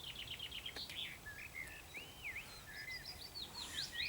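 Outdoor birdsong: a fast run of short, high repeated notes at the start, then assorted whistled phrases that slide up and down, over a steady background hiss.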